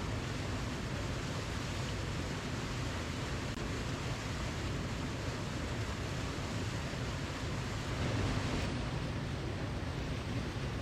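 Waterfall: a steady rush of falling water, even and unbroken, swelling slightly about eight seconds in.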